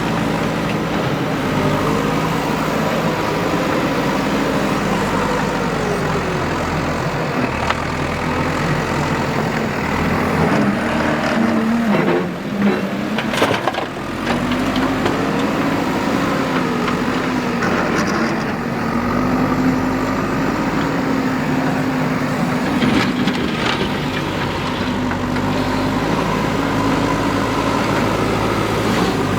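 JCB 3DX backhoe loader's diesel engine running under working load, its revs rising and falling as it digs and loads. About halfway through there is a short cluster of knocks and clatter.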